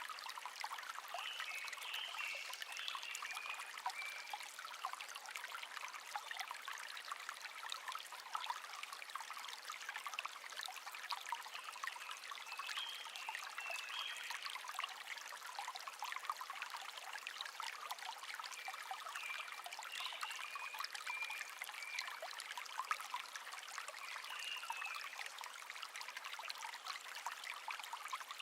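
Brook babbling and trickling steadily, with a songbird singing short warbling phrases every several seconds over it.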